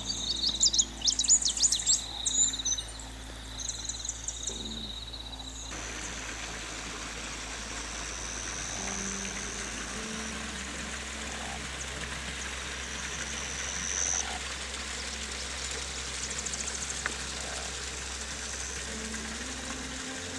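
Dawn nature sounds: birds chirping and trilling loudly in the first few seconds. About six seconds in this gives way abruptly to a steady hiss of running water, with a thin high steady tone over it.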